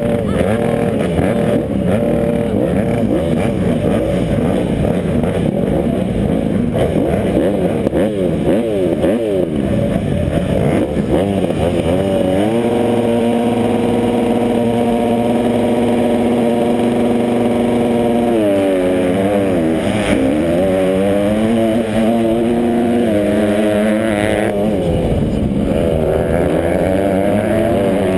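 Motocross motorcycle engines revving, the pitch rising and falling as riders shift and work the throttle. From about twelve seconds in, one engine holds a steady note for some six seconds, then drops and wavers again.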